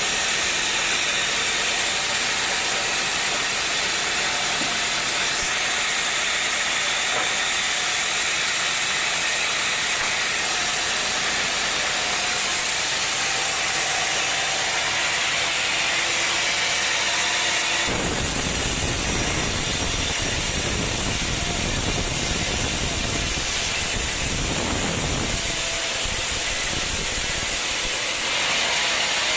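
Sawmill machinery running with a steady loud hiss. About two-thirds of the way through, a heavier low rumble joins for several seconds, then drops away near the end.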